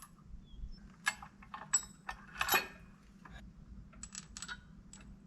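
Light metallic clinks and taps of steel washers and nuts being handled and slipped onto bolts, coming irregularly, the loudest about two and a half seconds in.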